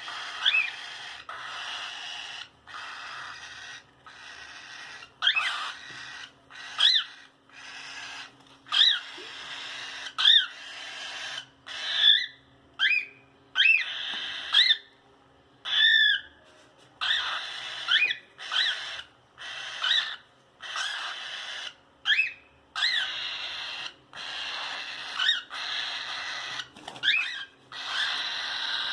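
Cockatiel calling over and over: short chirping calls with rising whistled notes, one after another with brief gaps. A faint steady hum sits underneath.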